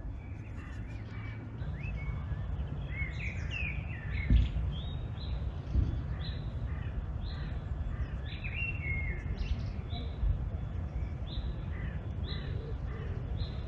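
Birds chirping, many short calls repeating throughout, over a steady low outdoor rumble, with two brief thumps about four and six seconds in.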